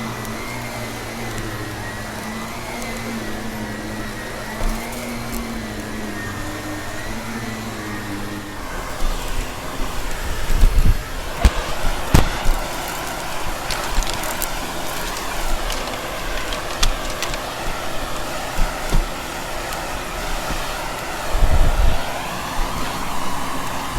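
Vacuum cleaner running with a steady motor hum and a wavering whine; about nine seconds in the tone changes to a rougher rushing with repeated knocks and clicks.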